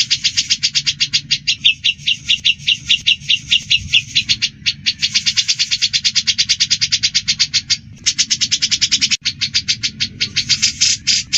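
Songbird chattering in fast runs of sharp repeated notes, about eight a second, broken by short pauses about four and eight seconds in, over a low steady background hum.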